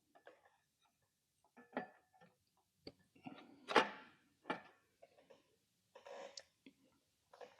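Scattered light metal clicks and knocks as a clutch pressure plate is fitted onto the flywheel's dowels, loudest about four seconds in.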